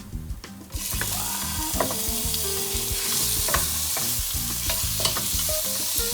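Scallops going into hot oil and chili in a wok: a sizzle starts suddenly just under a second in and keeps up steadily, with the spatula clicking and scraping against the pan as they are stir-fried.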